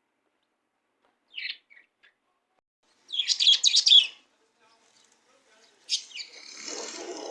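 Budgerigars chirping: a short call, then about a second of rapid, loud chattering chirps, and another burst of calls near the end.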